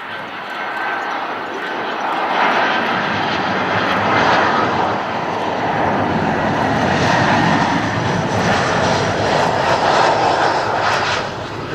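Jet airliner passing close by, its engines a loud, steady roar that grows over the first couple of seconds and eases slightly near the end.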